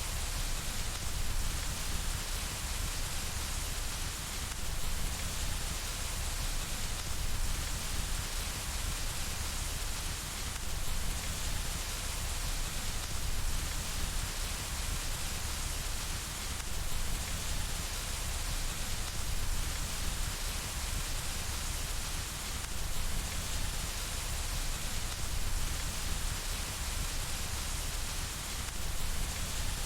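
Steady rain on window glass: a continuous, even hiss with a low rumble underneath.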